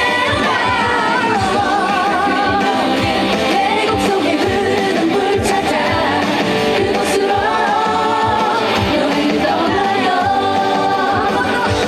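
A woman singing a trot song over a loud backing track with a steady beat, her held notes wavering with vibrato.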